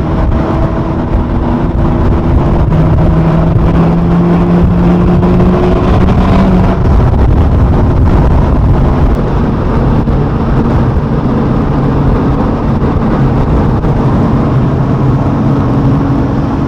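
Sports car engine accelerating, its pitch climbing for about four seconds, then dropping back and running steadily at cruising speed over constant road noise.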